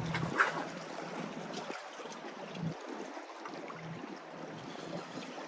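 Steady rush of wind and moving water at a jetty, with low wind rumble on the microphone coming and going and a brief sharper sound about half a second in.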